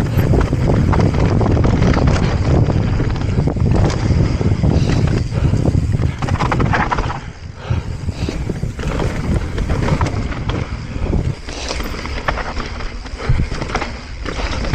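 A mountain bike rolling over a rough dirt trail, with wind buffeting the microphone and the tyres and frame rattling and clattering over the ground.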